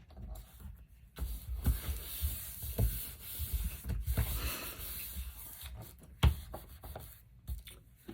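Paper being rubbed and smoothed down by hand onto a glued journal page: a dry rubbing from about a second in, with a few soft knocks against the table.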